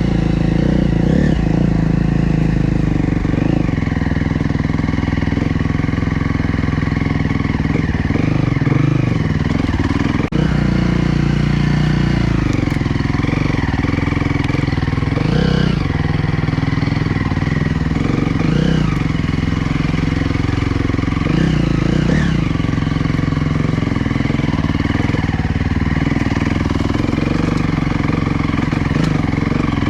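Dirt bike engines running steadily, with brief revs rising and falling every few seconds.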